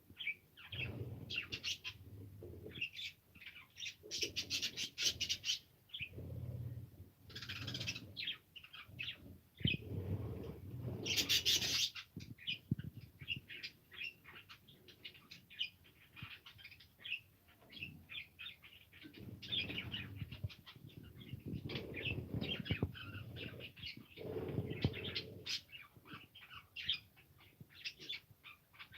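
Pet budgerigars chirping and chattering: a steady stream of quick, high chirps, with some lower warbling sounds mixed in.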